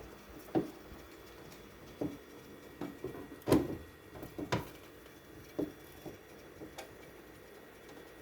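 Irregular knocks and clunks of items and fridge parts being handled while a refrigerator is cleaned, about ten in all, the loudest about three and a half seconds in.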